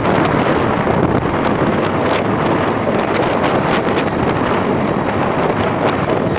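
Loud, steady wind rushing over the microphone while riding, with no clear engine note showing through.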